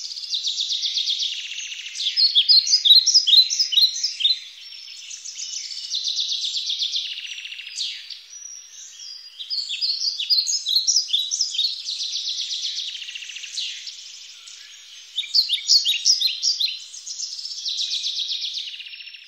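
Songbirds singing in a forest: fast high trills alternate with runs of quick falling chirps, in phrases that repeat every few seconds.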